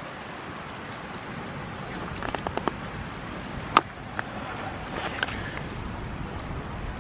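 Steady wind-and-water noise at the shore with a scatter of small clicks and taps, a cluster about two seconds in and the sharpest click a little under four seconds in.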